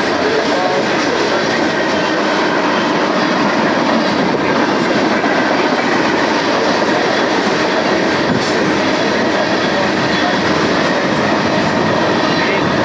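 Freight cars of a long mixed freight train rolling past at speed, a steady loud rumble and rattle of steel wheels on the rails.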